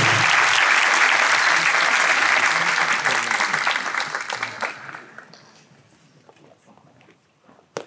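Audience applauding, dying away about five seconds in. A sharp knock near the end.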